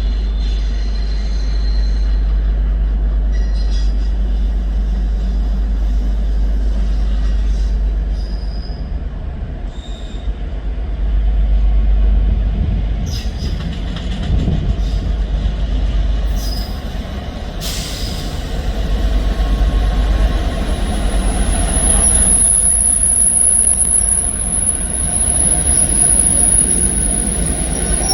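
Diesel train moving along the platform line, its engine rumbling low, with a high steady wheel squeal setting in about two-thirds of the way through.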